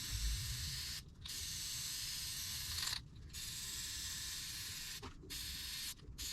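Aerosol can of air filter oil spraying onto a foam dirt-bike air filter: a steady hiss in long bursts, with the nozzle let off briefly about every two seconds.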